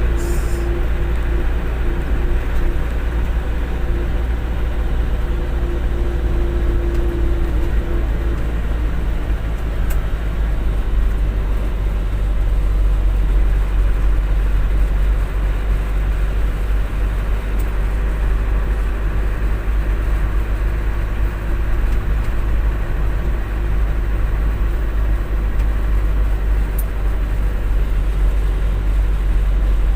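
Truck engine running steadily with a deep low rumble; a steady mid-pitched hum over it fades out about eight seconds in.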